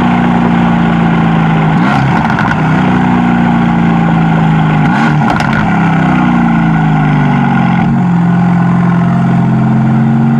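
2020 Mercedes-AMG GT's engine and exhaust running loud under way at a fairly steady note. The pitch dips briefly and recovers three times, about every three seconds.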